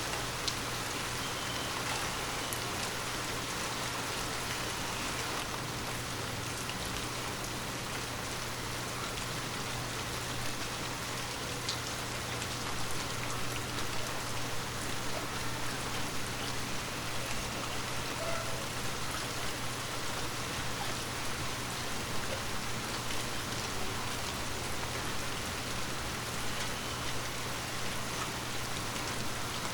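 Steady rain falling: a continuous hiss of rain with scattered individual drops ticking, growing slightly louder partway through.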